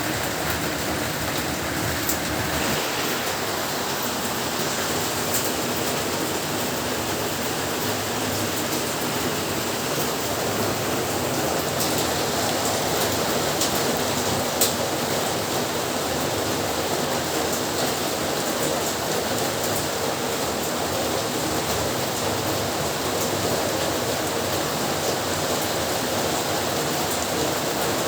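Heavy rain falling steadily, with a few faint sharp drip or splash ticks, one a little louder about halfway through.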